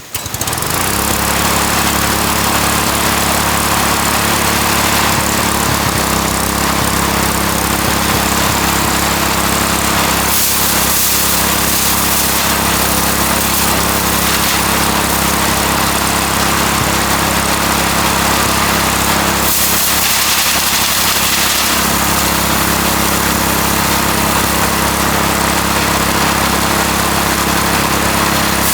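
Mini rice threshing machine running steadily at constant speed. A loud, even machine hum sits under a high rushing hiss, and the hiss swells twice, around ten and twenty seconds in.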